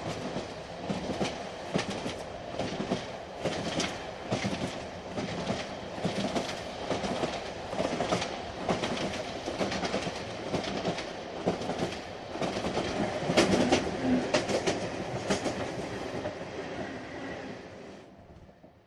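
Interior of a moving train carriage: steady rumble of the running train with irregular clicks and knocks of the wheels passing over rail joints. It fades out near the end.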